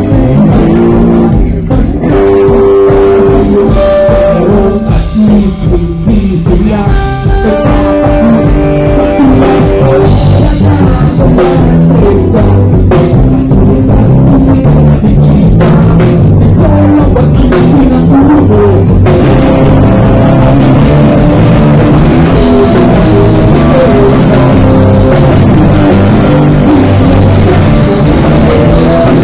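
Live rock band playing very loud, with electric guitars, a drum kit and a singer. The music fills out and gets denser about two-thirds of the way through.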